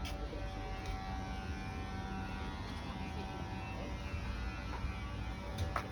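A steady machine hum over a low rumble, several even tones held throughout, with a couple of faint ticks near the end.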